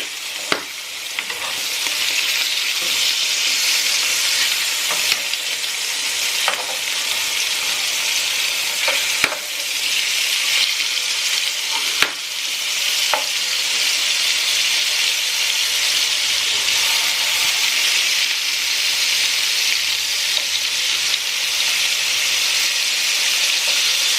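Fish shallow-frying in hot oil, a steady sizzle, with a few sharp clicks of a utensil against the pan.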